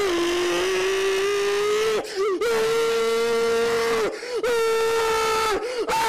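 A man screaming in long, held yells: three in a row, each lasting one to two seconds, with short breaks between them. The second and third are higher-pitched than the first.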